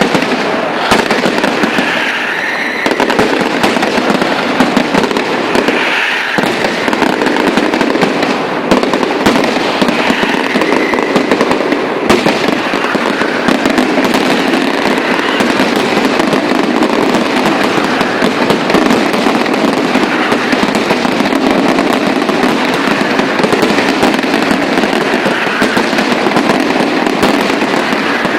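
Night fireworks going off in a dense, unbroken barrage of crackling and popping, with a few faint whistling glides now and then.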